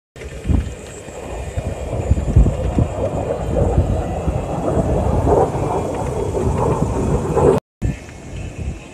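Jet aircraft engine noise: a low, rough rumble that builds over several seconds and breaks off suddenly near the end.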